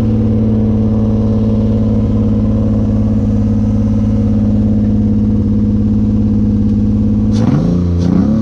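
Honda J35 3.5-litre V6 idling steadily, just fired up after a cam sensor and timing job. Near the end the throttle is blipped twice, the revs rising and falling each time.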